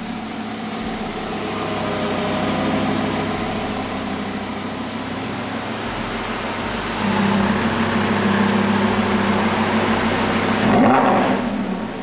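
Lamborghini engine running at idle, its note stepping up and getting louder about seven seconds in, then a quick rev blip that rises and falls near the end.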